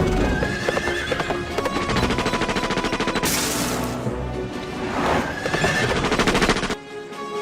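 Dramatic soundtrack music with horses whinnying twice and a fast, dense clatter of hooves.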